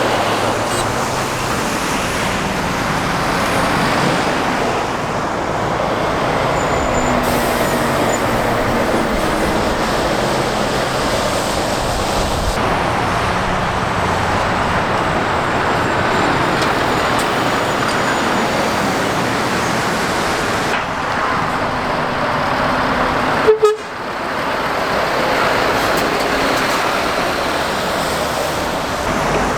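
Continuous traffic on a busy trunk road: lorries and cars passing with engine and tyre noise. About 23 seconds in there is a brief sharp blip, and the sound drops out for a moment.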